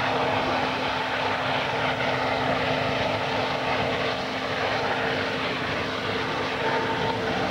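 Turbine-powered modified pulling tractor running hard: a loud, steady engine noise with a steady whine over it.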